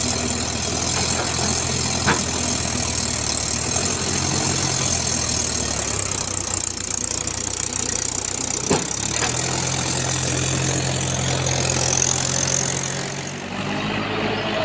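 Heavy diesel engine of a tractor or backhoe loader running steadily under a strong hiss, with two sharp knocks, one about 2 seconds in and one about 9 seconds in. The noise eases slightly near the end.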